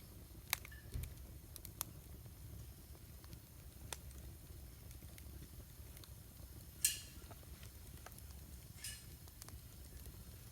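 Wood campfire burning: a low steady rumble with scattered sharp crackles and pops, about six of them, the loudest about seven seconds in.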